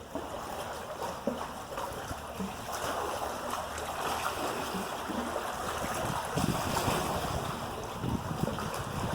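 Steady outdoor rush of wind and water, with wind buffeting the microphone in irregular low bumps.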